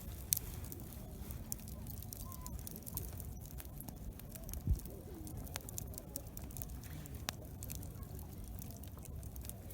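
Wood campfire crackling with scattered sharp pops over a low rumble, with faint distant voices of other campers; a dull thump about halfway through.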